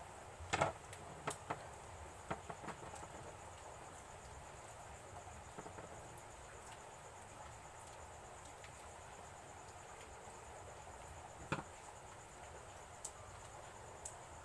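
A few sharp clicks and taps: several in the first three seconds and one more about eleven and a half seconds in. Under them is a faint steady hiss with a thin high whine.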